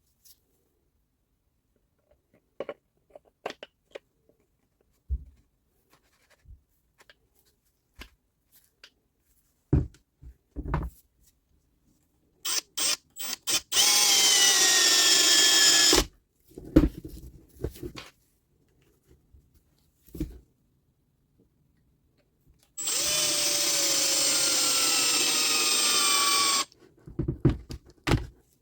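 An electric power-tool motor runs in two bursts, the first about two seconds and the second about four, its pitch sinking steadily as it comes under load. Short blips of the trigger and the clicks and knocks of parts being handled come in between.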